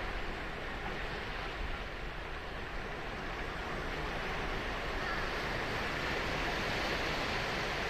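Ocean surf washing onto a sandy beach: a steady, continuous rush of breaking waves that swells slightly from about five seconds in.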